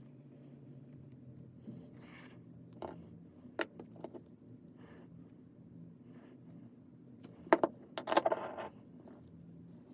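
Small metal parts clinking and scraping as they are handled, in scattered clicks, with a louder metallic clatter about three-quarters of the way through. A faint steady low hum runs underneath.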